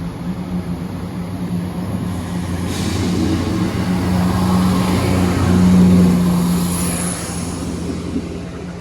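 Class 170 Turbostar diesel multiple unit arriving, its underfloor diesel engines running with a steady low hum that grows louder to a peak about six seconds in, then fades.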